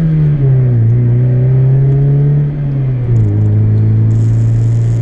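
Mazda MX-5's 1.8-litre four-cylinder engine with an aftermarket exhaust, driving under way: a pretty loud exhaust note that drops in pitch about half a second in and again about three seconds in, then holds steady.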